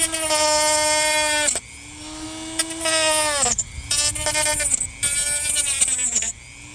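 A small electric power tool cutting into a thick dried gourd shell, a steady motor whine with a rasping cutting noise. The whine sags and falls away about three times, as the tool bogs down in the shell or is let off, then picks up again.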